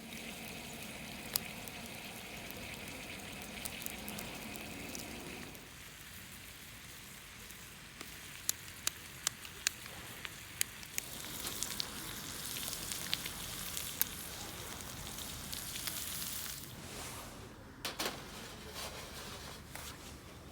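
Food frying in a pan, sizzling steadily, with a run of sharp pops about eight to eleven seconds in and a brighter, hissier sizzle after that.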